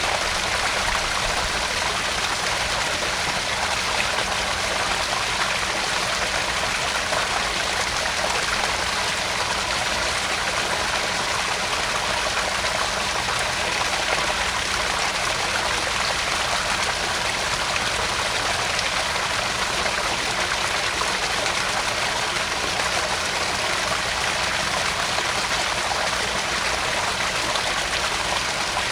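Small garden-pond waterfall: water splashing and trickling steadily into the pond.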